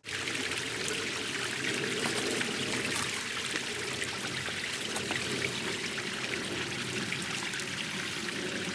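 A small stream trickling and babbling over rocks: a steady rush of running water with small splashes.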